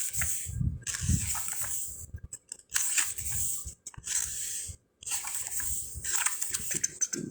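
Paper pages of a small guidebook being turned and flipped through in a series of short rustles, about six in all, with brief pauses between them.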